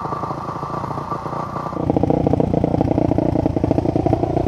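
Dirt bike engine running steadily, turning louder and heavier about two seconds in.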